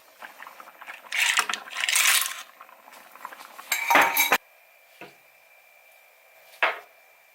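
Dishes and utensils clattering in a kitchen: a run of clinks and scrapes about a second in, the loudest clatter around four seconds, then two short knocks.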